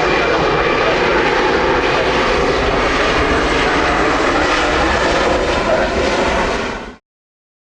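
Loud, steady engine noise of a nearby airliner, cutting off abruptly about seven seconds in.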